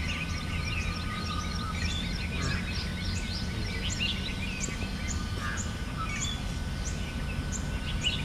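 Many birds chirping, with short high calls overlapping thickly, over a steady low hum of background noise.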